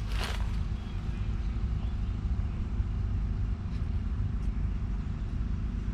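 2021 John Deere 6145R's 6.8-litre six-cylinder diesel engine running steadily in a low, even drone, with a brief rushing noise in the first half second.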